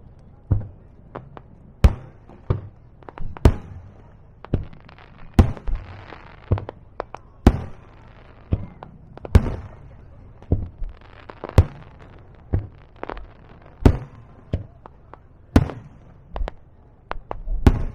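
Aerial fireworks shells bursting in quick succession: a long run of sharp booms, about one or two a second, with a crackling hiss between them around the middle.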